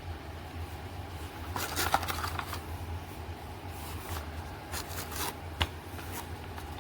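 Light rustling, scraping and sharp clicks from something being handled, over a steady low hum, with one louder click about five and a half seconds in.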